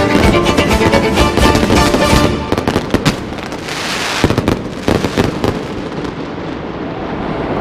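Fireworks bursting: a quick run of sharp bangs and crackles about two and a half seconds in, after music that stops, and then a steady wash of noise.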